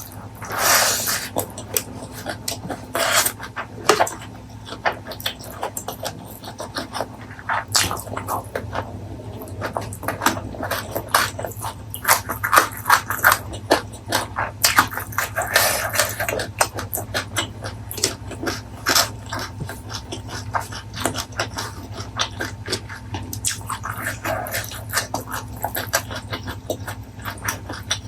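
Close-miked eating sounds of a meal of fried fish, chili sauce, stir-fried pumpkin leaves and rice: wet chewing and lip smacking, a dense run of small clicks with a few longer smacking stretches.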